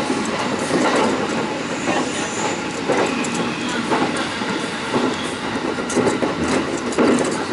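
Running noise of a local train heard from its front cab: a steady rumble of wheels on rail with a clack roughly once a second. An E6-series Komachi shinkansen is running past close alongside on the next track.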